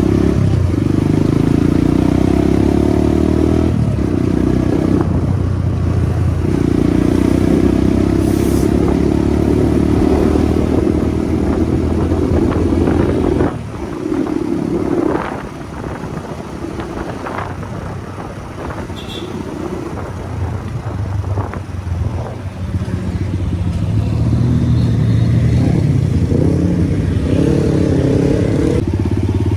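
Motorcycle engine running while riding. About halfway through it drops off to a lower, quieter run with a few clicks and knocks, then picks up again near the end.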